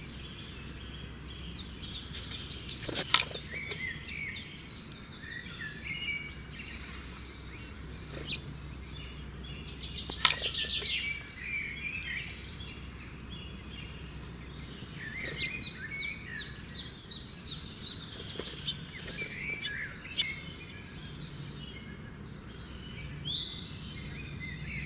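Several small birds chirping and trilling in quick, overlapping calls, over a steady low background hum. Two sharp clicks stand out above the birdsong.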